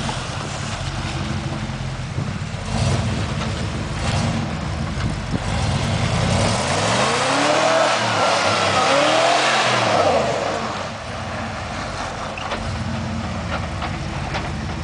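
Off-road truck engine running, revved up and back down twice near the middle, then settling back to a steady run.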